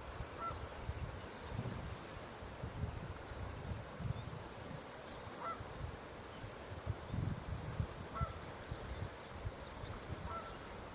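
Geese honking in the distance, a few short single calls a few seconds apart, with faint high chirps of small birds and an uneven low rumble underneath.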